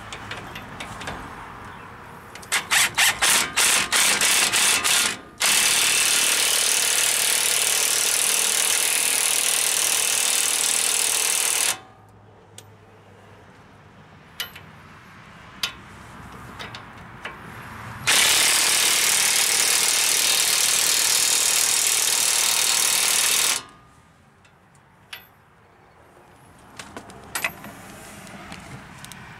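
Power tool run in a quick string of about eight short trigger bursts, then held on in two long steady runs of about six seconds each, with light clatter and clicks in between; work on the reassembled Dana 44 front axle.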